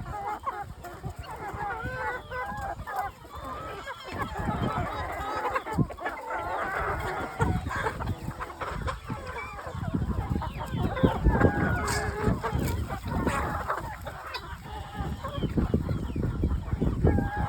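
A flock of criollo hens clucking at feeding time, with many short wavering calls overlapping. Dull knocks and rustling run underneath and grow louder in the second half.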